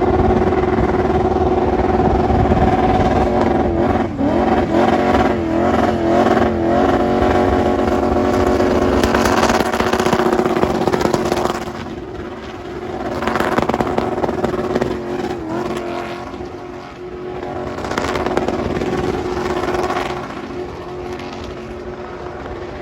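307 V8 with 180-degree headers, run hard at high revs during a burnout, the pitch wavering for a few seconds. About halfway through it eases off, then revs up and down in surges.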